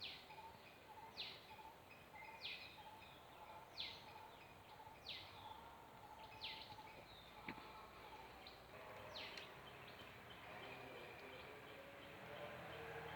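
Faint outdoor ambience with a bird repeating a short call that falls steeply in pitch, about every second and a half at first and then once more before it stops.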